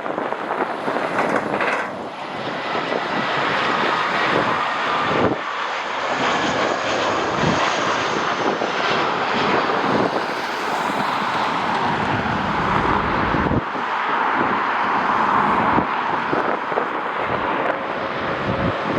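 Jet airliner engines running close by, a steady loud rush with a faint whine that slowly shifts in pitch. Gusts of strong wind buffet the microphone throughout.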